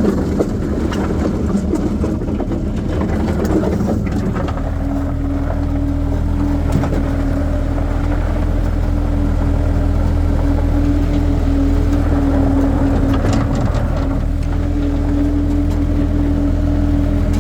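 Skid steer loader's engine running steadily under work, with a steady whine joining about four seconds in.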